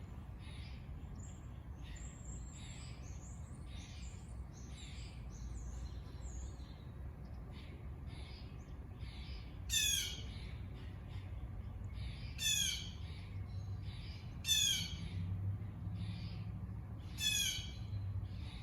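Birds chirping and twittering, then from about halfway through one bird gives a loud, harsh call four times, roughly every two and a half seconds.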